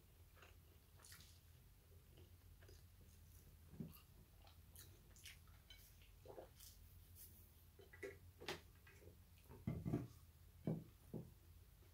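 Faint chewing of a double cheeseburger, with scattered soft mouth clicks. Near the end come a few soft knocks as the burger is put down on the plate.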